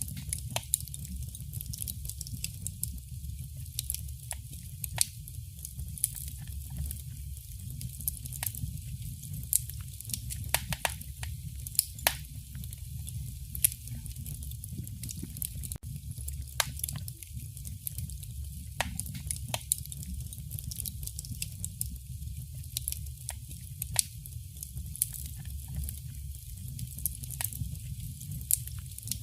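Fire burning in a fireplace, crackling and popping sharply and irregularly over a steady low rumble of the flames.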